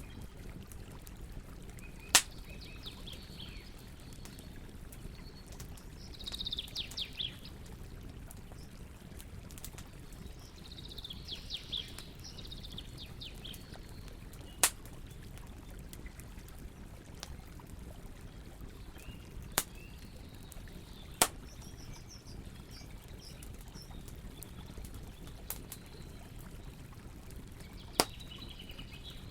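Campfire burning with a steady low hiss, broken by single sharp pops every few seconds. A bird calls in quick high trills, twice in the first half and more faintly later.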